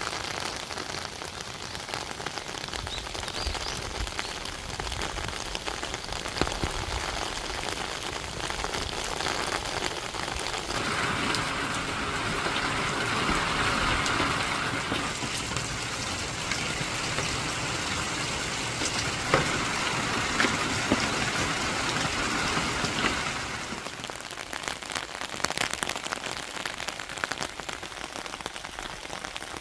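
Steady rain falling, with individual drops tapping on a surface; it grows louder for about twelve seconds in the middle, then eases back.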